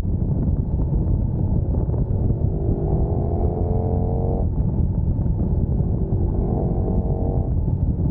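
Sport motorcycle at speed under a heavy wind rumble, its engine note rising twice as it accelerates, each rise breaking off sharply, about four and a half seconds in and again near the end.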